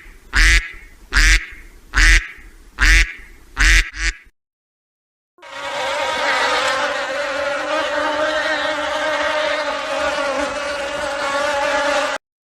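A run of short calls with a quack-like tone, repeated about every 0.8 seconds for about four seconds. After a brief silence comes a steady, even buzzing like a flying insect, which lasts about six and a half seconds and then stops suddenly.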